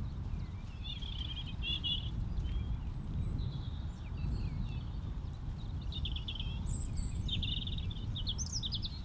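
Small birds chirping in short phrases, several coming in quick succession near the end, over a steady low rumble.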